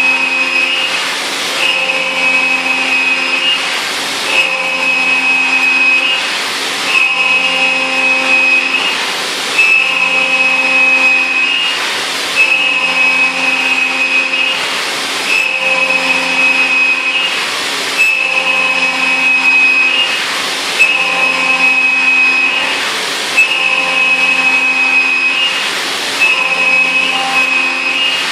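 CNC mill trochoidal-milling 6082 aluminium with a 3-flute end mill at 8,000 rpm, 20 mm deep. It makes a high cutting whine that breaks off briefly with a short hiss and starts again about every three seconds as the cutter loops into and out of the cut.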